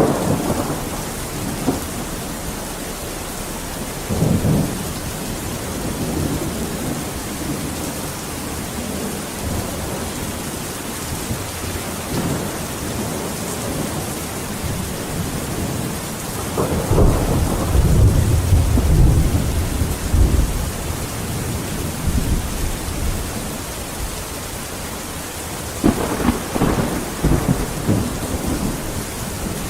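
Steady heavy rain with rolling thunder: a long, loud rumble about two-thirds of the way through, and shorter rumbles near the start and near the end.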